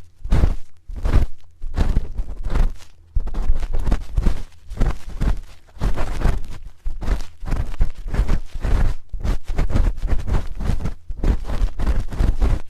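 Close-up ASMR ear cleaning: a spoon scraping and rubbing against a binaural ear microphone in quick repeated strokes, with a deep rumble from the mic being handled and a few brief pauses.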